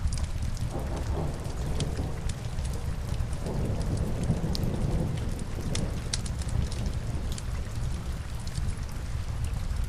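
Steady rain with a continuous low rumble underneath, and the sparse sharp crackles of a wood fire burning in a fireplace scattered throughout.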